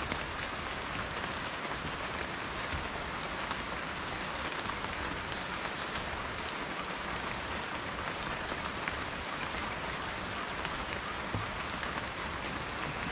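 Steady rain falling, with individual drops ticking here and there.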